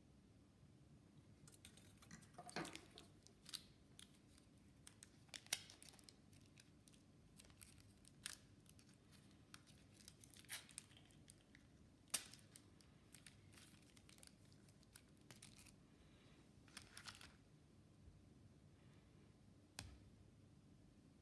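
Faint, scattered clicks and brief rustles of small objects being handled, irregular and a second or two apart, over a faint steady low hum.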